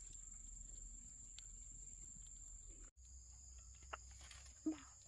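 Insects keeping up a steady high-pitched trill, broken by a brief drop-out about three seconds in, with a short low sound near the end.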